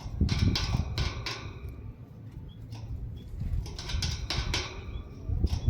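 Small cage birds moving about a cage, a female canary and a male white-headed munia: repeated wing flutters and taps, with a few short high chirps, over a low rumble.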